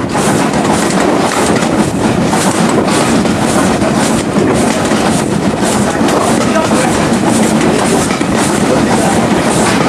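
Railway carriage running along the line behind a steam locomotive: a loud, steady rumble and clatter of wheels on the track, with a faint regular beat.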